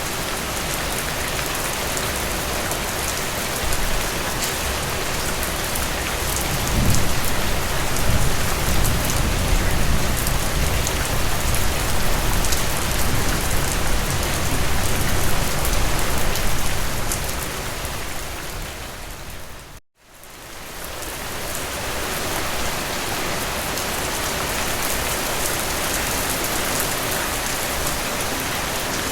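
Heavy rain falling steadily as an even hiss. A low rumble swells about a quarter of the way in and lasts roughly ten seconds. About two-thirds of the way through, the rain briefly fades out to silence and fades back in, as at a loop join.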